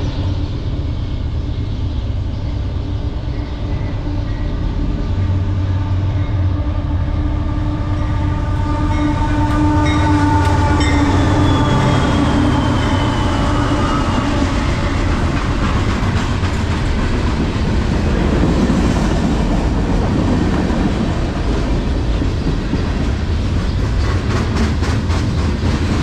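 Metra commuter train running on the rails: a steady rumble with several held squealing tones through the first half, one sliding down in pitch, and a run of rapid wheel clicks near the end.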